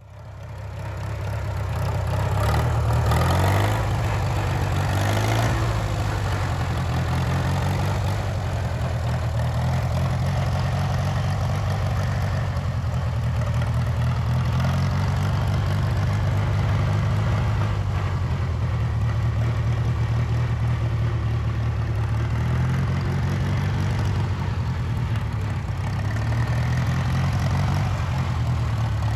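Hercules IXA engine of a 1936 Silver King R44 tractor running. It fades in, speeds up briefly in the first few seconds, then runs steadily at idle.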